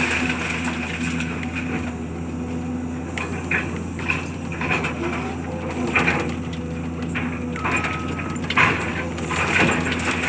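Demolition debris crunching and cracking at irregular moments over the steady running of a heavy machine's engine.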